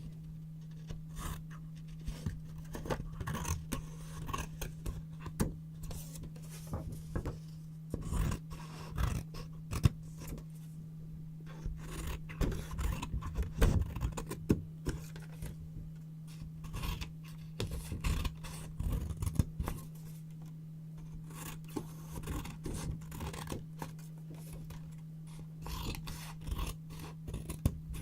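Scissors snipping and cutting through yellow paper in many short, irregular strokes, with paper scraping and rustling between the cuts. A steady low hum runs underneath.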